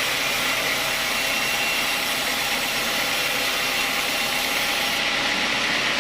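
Sawmill saw cutting through an old teak log: a steady, high, hissing noise with no breaks.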